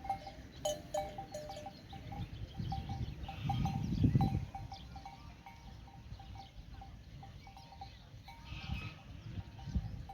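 Small bells on a grazing flock of sheep or goats clinking irregularly, with a louder low rumbling noise about four seconds in and a brief bleat near the end.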